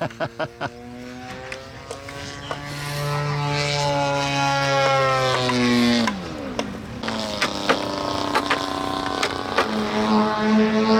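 Radio-control model airplane engine flying past, its pitch rising slowly and then dropping sharply about six seconds in as it goes by. A second steady engine note takes over after that.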